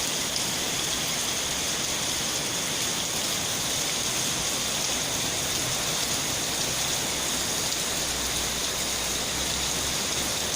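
Heavy rain pouring down steadily: a dense, even wash of rain noise.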